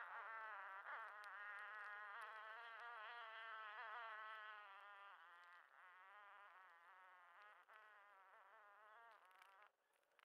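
A flying insect buzzing close by, its pitch wavering up and down as it moves. It slowly fades, then cuts off near the end.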